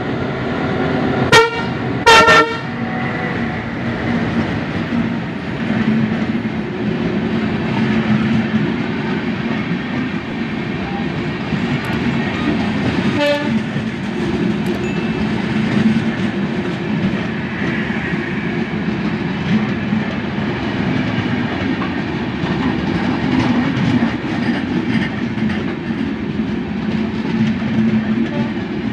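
Two short blasts of a diesel locomotive's horn a second apart, the second a little longer, then the steady rumble and wheel clatter of a passenger train's coaches passing close by on the next track.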